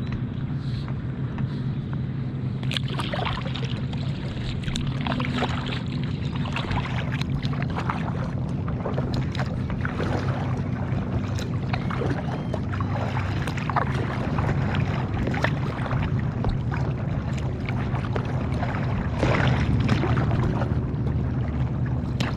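Kayak paddle strokes splashing and dripping in the water at an irregular rhythm, over a steady low motor drone.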